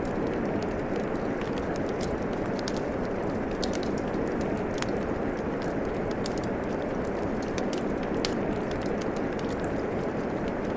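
Steady rain falling, with a wood fire crackling over it: small sharp pops and snaps scattered irregularly throughout.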